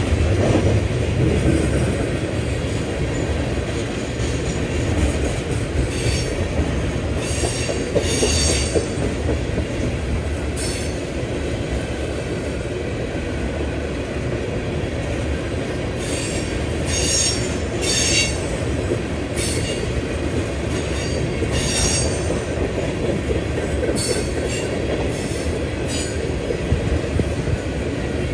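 Freight train of tank cars rolling past: a steady rumble of wheels on rail, broken by short, high-pitched wheel squeals every few seconds.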